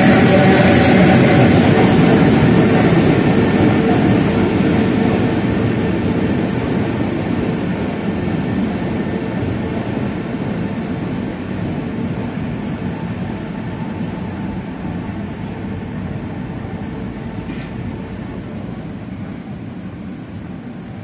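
Suburban HÉV train rolling past and moving away, its rumble and wheel noise fading steadily.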